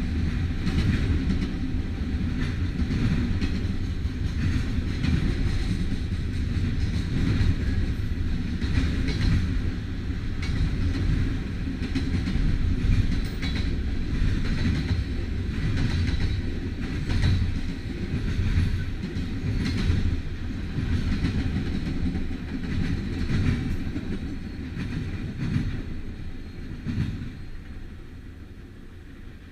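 Freight train cars rolling past with a steady low rumble and repeated clacks of wheels over rail joints. The sound dies away over the last few seconds as the train moves off.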